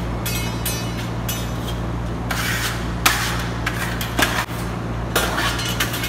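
Steel marmorato trowel scraping over a wall in short, repeated strokes as a thin coat of burnt-cement texture is spread and burnished, with a sharp click about three seconds in. A steady low hum runs underneath.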